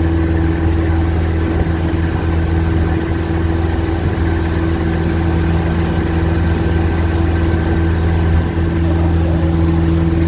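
A 31 ft Wellcraft cruiser's engine running at a constant speed, a loud, steady drone that holds one pitch with no revving.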